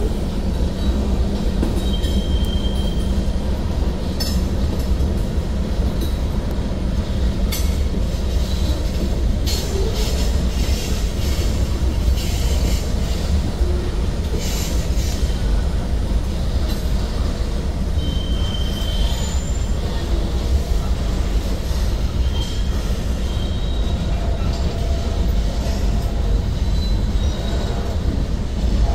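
Freight cars of a manifest train rolling past: a steady low rumble of steel wheels on the rails, with short high-pitched wheel squeals now and then and a few sharp clanks.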